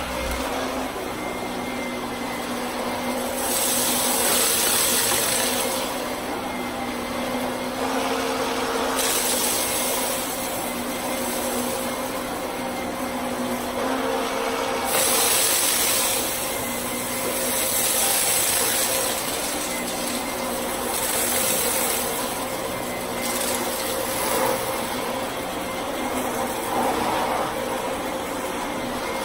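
Vacuum cleaner running steadily, its airflow hiss swelling and easing every few seconds.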